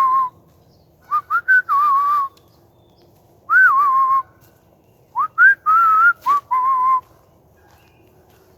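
A man whistling a tune in short phrases of sliding notes, with brief pauses between them; the whistling stops about seven seconds in.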